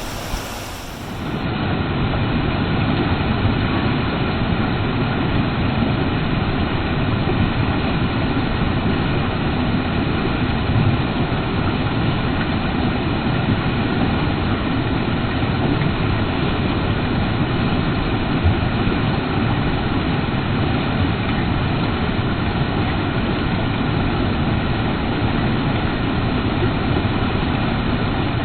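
Creek water rushing steadily close to the microphone, a full, low, unbroken sound. It cuts in about a second in, a little louder and duller than the water just before.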